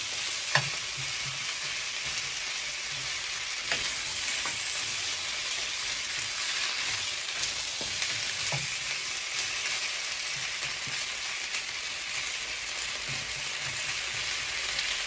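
Chicken wings in sauce sizzling in a hot wok as they are stir-fried with a silicone spatula, a steady frying hiss with a few light knocks of the spatula against the pan, the sharpest about half a second in.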